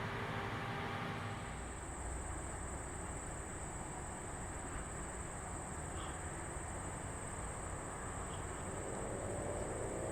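An insect trilling with a steady, unbroken high-pitched buzz that starts about a second in, over a low outdoor rumble. Near the end, a motor comes in, rising in pitch.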